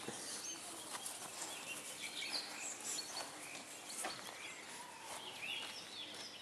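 Birds chirping in many short, scattered high calls over a soft outdoor background hiss.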